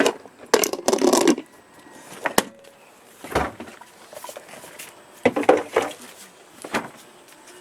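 A few scattered knocks and clattering sounds, in short clusters separated by quieter stretches.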